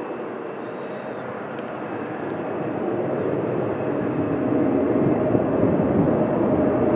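Jet airliner's engines, a broad rushing noise with a faint steady whine, growing steadily louder as the plane draws near.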